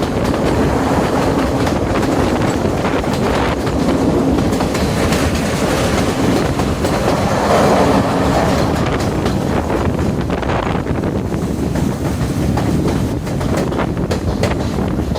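Diesel express train running along the line: a steady rumble with the rattle and clatter of wheels over rail joints, swelling a little louder about halfway through.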